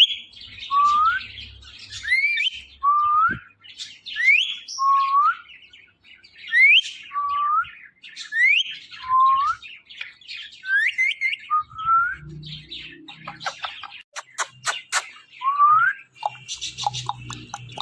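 Ringneck parrot giving repeated rising whistles, a pair of upward-gliding notes about every two seconds. Later comes a quick run of sharp clicks, then scratchier bird calls.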